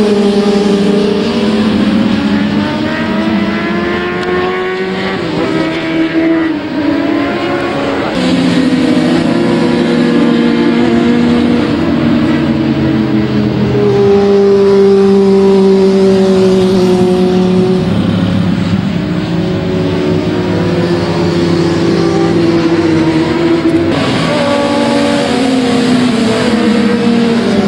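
Racing motorcycle engines at high revs on a circuit. Several are heard at once, their pitch rising and falling through gear changes, with sharp shifts about eight seconds in and again near the end.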